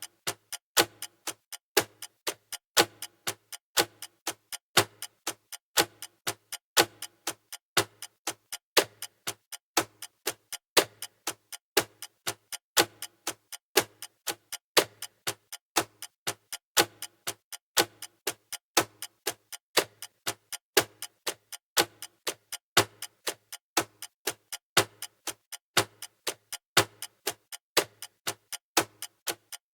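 Countdown timer's clock ticking sound effect: a steady run of sharp ticks, several a second, with a louder tick about every two seconds.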